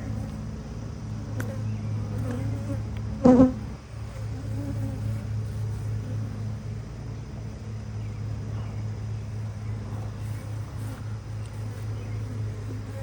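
Honeybees buzzing in a steady hum around an open beehive, with one loud knock a little over three seconds in.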